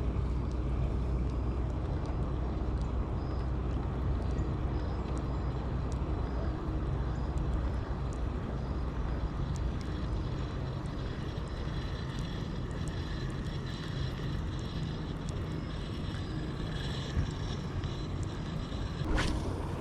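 Steady low drone of a distant engine, with a single sharp click near the end.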